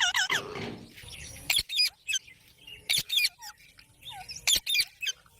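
Parrots calling: a quick run of short, high chirps and squeaks broken by several sharp squawks.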